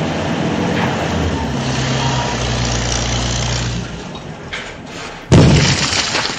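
A vehicle engine running steadily with a low hum, fading out about four seconds in. A single sudden loud knock follows about a second later.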